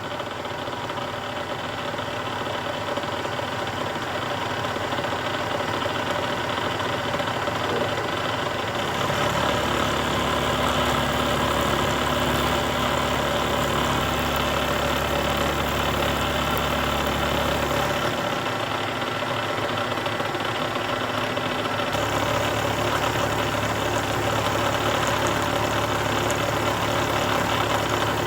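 Milling machine running, its 1/4 inch two-flute end mill cutting a key slot in a ball valve's ball: a steady machine hum with several steady tones. The low part of the hum shifts a few times, about a third of the way in and again around two-thirds through.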